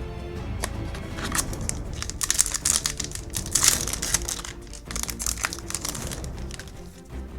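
Foil booster-pack wrapper crinkling and rustling as it is handled, over steady background music.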